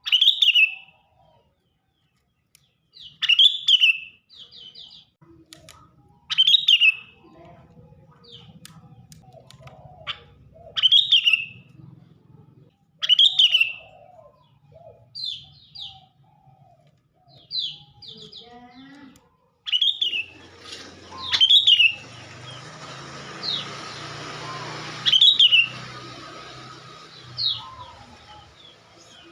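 Sooty-headed bulbul (kutilang) calling noisily: loud, short chirps that sweep downward, repeated every two to three seconds, with softer, lower calls between them. About twenty seconds in, a steady hiss of background noise comes up under the calls for several seconds.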